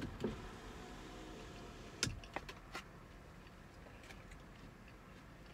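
A few sharp clicks and taps of food packaging being handled while eating, clustered about two seconds in, over a low steady hum.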